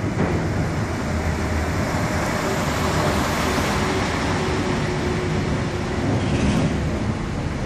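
Overhead-line engineering train passing close by at speed: a steady rush of wheels on rails with a faint tone running underneath.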